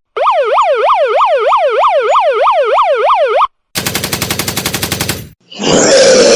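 Electronic siren in a fast yelp, its tone sweeping up and down about four times a second, which cuts off after about three seconds. A rapid rattle of hits follows, then a loud, noisy burst lasting about a second near the end.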